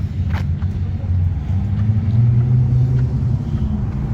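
A car engine with a loud exhaust rumbling low, its pitch rising about two seconds in and easing back down near the end.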